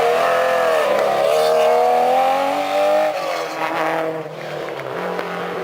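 Historic rally car's engine revving hard, its pitch dipping briefly near the start, then climbing, then falling away and getting quieter after about three seconds as the car goes on down the stage.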